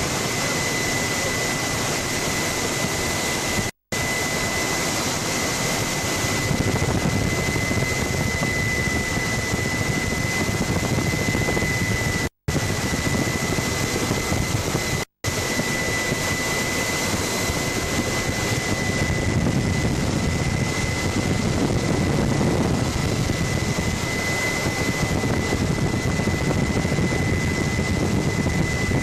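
Helicopter noise heard from aboard: a steady loud rush with a constant high-pitched tone, cut to silence three times very briefly.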